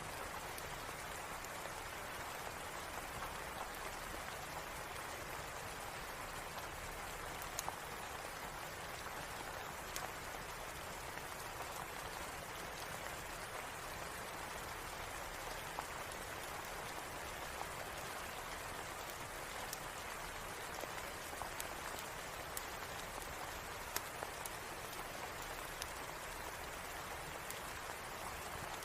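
Steady rain falling, an even hiss of drops, with a sharp click now and then.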